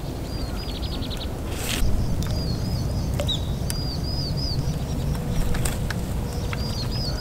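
A small bird singing short phrases of three or four high, rising-and-falling notes, repeated several times, over a steady low rumble. A brief rapid high trill comes early on, and a short hiss of noise about one and a half seconds in.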